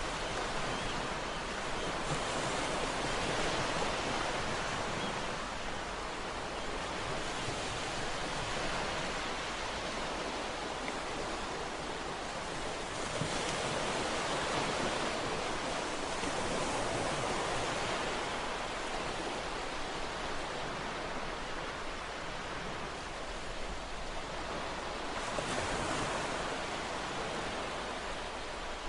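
Ocean surf: waves breaking and washing in a continuous rush, swelling louder about every five or six seconds as each wave comes in.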